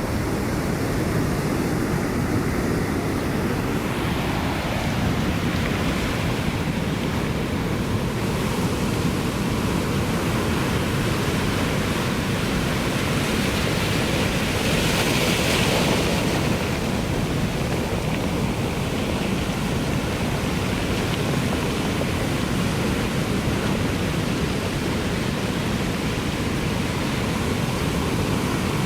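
Ocean surf: a steady wash of waves, with one wave breaking a little louder about halfway through.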